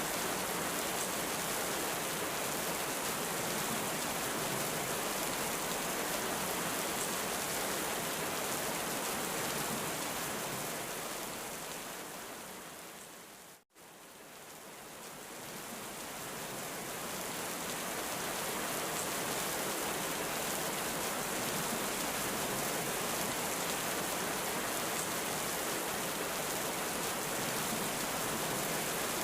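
Heavy rain falling in a steady hiss. About halfway through it fades down to a moment of silence and fades straight back up, the join of a looped recording.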